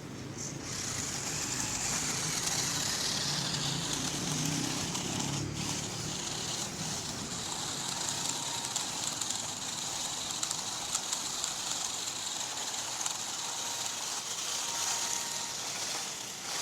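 An RC rock crawler with its tuned-up stock motor running: a steady high whirring of motor and gears, with a lower hum in the first few seconds.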